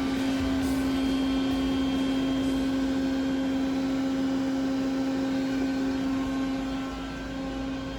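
Nakamura TMC-400 CNC turning center running under power: a steady mechanical hum carrying one strong held tone, which drops away near the end.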